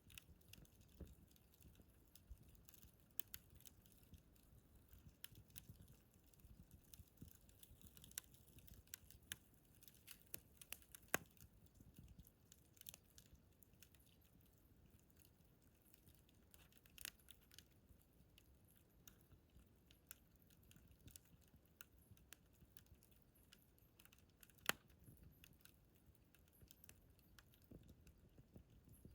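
Wood fire in a fire pit crackling faintly, with scattered small snaps of burning wood and two louder pops.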